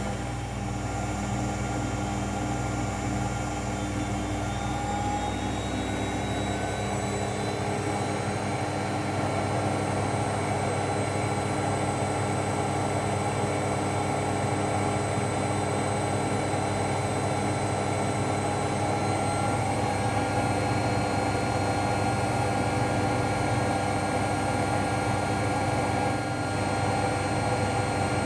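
AEG Lavamat L74810 washing machine spinning its drum at high speed: a steady motor whine with a rumble whose pitch climbs over the first several seconds, then holds steady.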